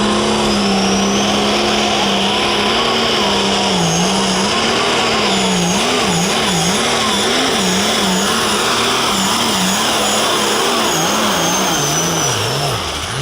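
Light Limited Super Stock pulling tractor's engine running flat out under load during a pull. Its pitch holds steady, then wavers up and down from about four seconds in as the tractor bounces mid-track, and it drops away near the end.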